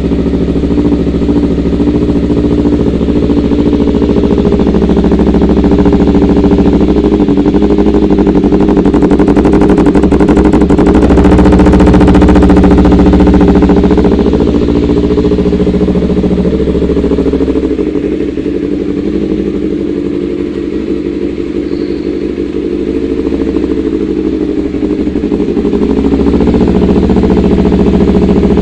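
250 cc sport motorcycle engine with an aftermarket racing exhaust, running with the revs held up. It gets louder from about six seconds in, eases off after about fourteen seconds, and picks up again near the end.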